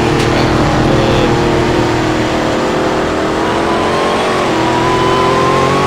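Car engine running while the car is driven, its pitch rising slowly through the second half as it picks up speed.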